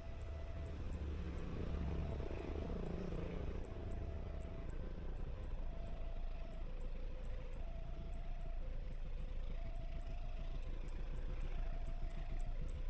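Railway level-crossing warning alarm sounding a repeating two-note tone, each note held just under a second, over a steady low rumble that swells about two seconds in.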